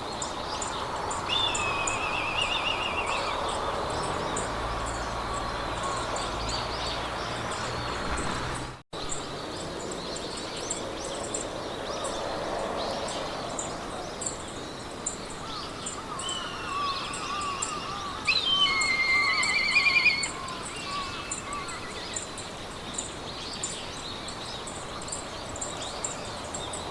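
Meadow ambience: songbirds singing short trilled phrases over a steady rapid ticking of insects and a steady hiss of wind. The loudest song comes about two-thirds of the way through, and the sound cuts out for an instant about a third of the way in.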